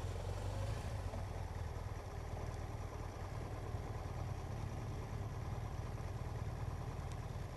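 Motorcycle engine running steadily, a constant low hum with road and wind noise over it.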